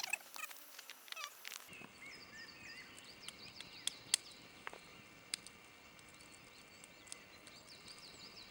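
Faint forest ambience with small birds chirping repeatedly and scattered sharp clicks.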